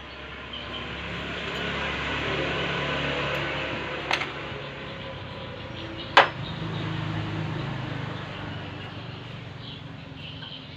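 Two sharp knocks, about four and six seconds in, the second louder, over a steady low hum and a hiss that swells and fades.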